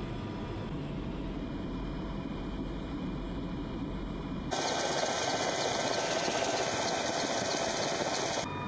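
Mil Mi-26 heavy-lift helicopter's engines and rotor running, a steady rumble. About four and a half seconds in it jumps abruptly to a louder, hissier noise, then changes again near the end.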